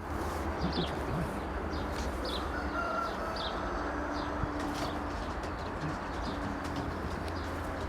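Racing pigeons cooing in low held notes, with short high chirps from birds scattered throughout, over a steady low hum and background hiss.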